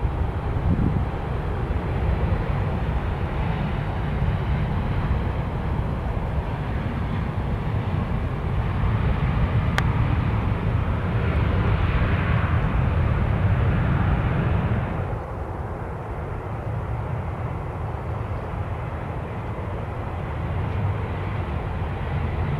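Jet airliner engines over a steady low rumble. The engine noise swells to its loudest about halfway through, then drops off suddenly.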